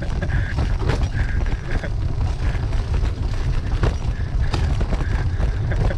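Steady wind rumble on the microphone, with the rattle of a bicycle riding over a rough, wet road and scattered sharp clicks.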